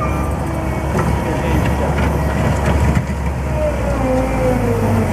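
JCB 205T skid steer loader running, its engine a steady low drone, with a fainter whine that shifts in pitch in the second half.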